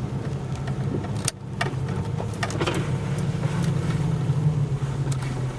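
Pickup truck engine running steadily while driving, with a few short clicks.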